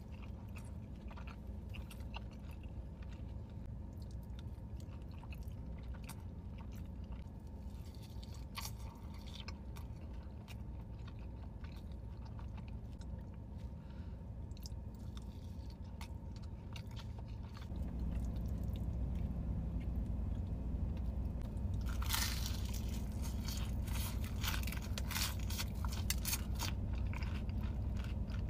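Close-miked eating sounds: chewing, wet mouth noises and crisp crunching bites of food, over a steady low hum. The crunching gets louder and denser past the middle.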